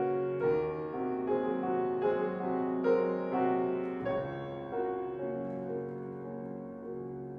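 Piano playing a slow passage, new notes and chords struck about every half second over ringing earlier ones, growing gradually quieter in the second half.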